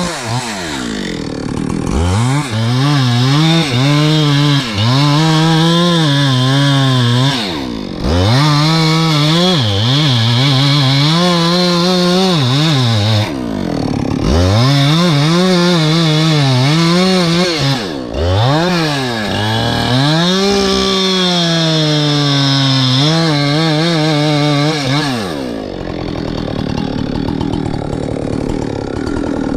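Chainsaw engine revving up and holding high under load, dropping back briefly about three times between cuts. Near the end it falls to a lower, steadier running sound.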